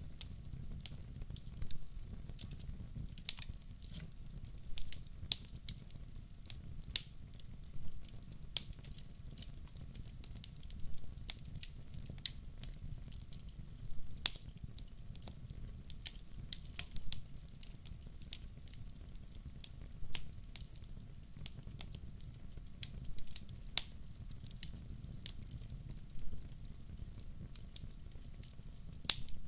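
Firewood burning in a fireplace, crackling: irregular sharp pops and snaps, a few louder ones every second or two, over a low steady rumble.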